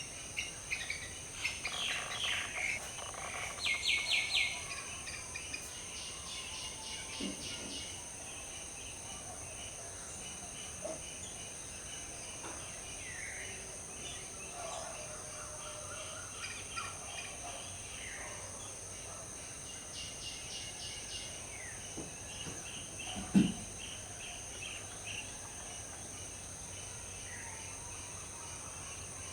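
Tropical birdsong from several wild birds: many short chirps and quick trills, busiest in the first few seconds, over a steady high-pitched whine. A single brief low thump comes near the end.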